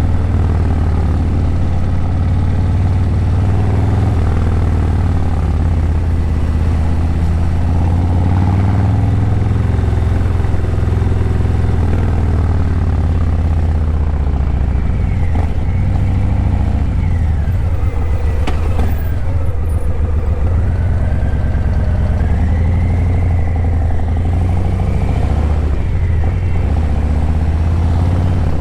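Harley-Davidson Breakout 117's Milwaukee-Eight 117 V-twin running through Vance & Hines Eliminator 300 slip-on mufflers while riding in city traffic, a steady deep rumble whose pitch rises and falls with the throttle.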